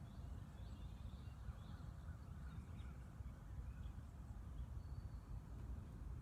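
Wild birds calling faintly: scattered short high calls and some brief warbling notes, over a steady low rumble.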